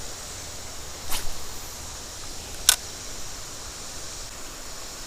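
Steady rush of flowing creek water, with two short sharp clicks about a second in and near three seconds in.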